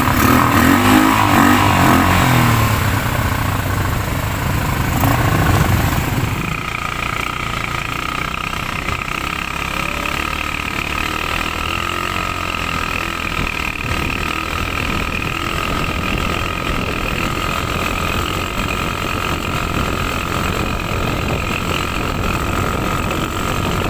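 ATV engine running, revving up over the first few seconds and then holding a steady drone with a constant whine.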